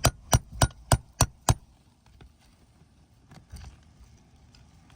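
Shingle hammer striking a nail puller six times in quick succession, about three blows a second, working it under a roofing nail in an asphalt shingle. A few faint taps follow.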